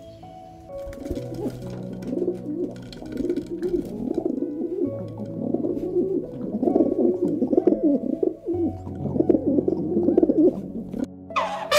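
Feral pigeons cooing over and over over soft background music. A loud, high call with falling pitch breaks in at the very end.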